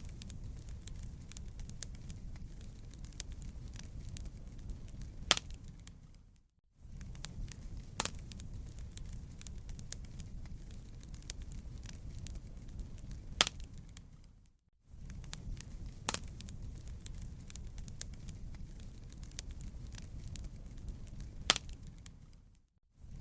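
Wood fire burning in a fireplace, crackling steadily over a low rumble with a loud pop now and then. The same short stretch of fire sound repeats about every eight seconds, each time with a brief dropout.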